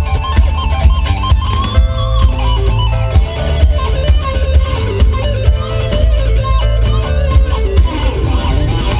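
Live band playing funk: an electric guitar lead line with bent notes over bass and a steady beat.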